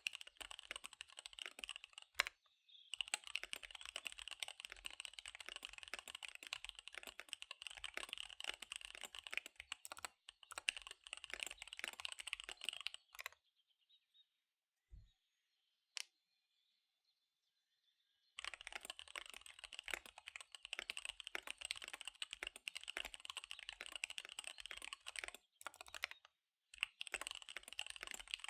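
Fast typing on a KBD75 V3 mechanical keyboard with SP-Star Dark Magic Girl tactile switches and DSA keycaps: a dense, rapid run of keystrokes. About halfway through it stops for roughly five seconds, with only a couple of single clicks, then the fast typing resumes.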